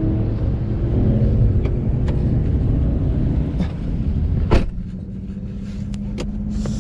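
Car engine running at low revs with a steady rumble. About four and a half seconds in there is a sharp knock, after which the engine sound is quieter and steadier.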